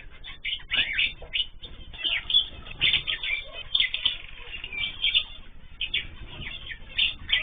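Aviary of ornamental cage birds (cockatiels, canaries and zebra finches) chirping and calling, many short overlapping chirps in quick succession.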